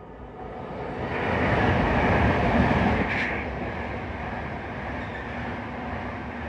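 A train running past on the rails, its noise swelling to a peak about two to three seconds in and then holding steady.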